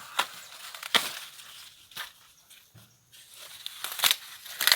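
Ears of green corn being snapped off the stalks and handled among the leaves: several sharp cracks spread over a few seconds, with rustling of leaves and husks in between.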